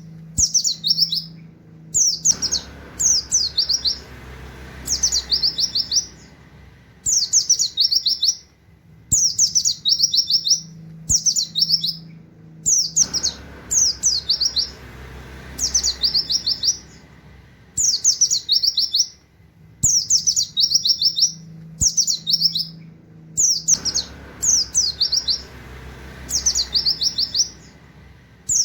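A pleci (white-eye) singing its rapid 'wit wit' song: short, high phrases of quick falling notes, each well under a second long and often given two or three in a row, repeated every second or two in a canary-like pattern.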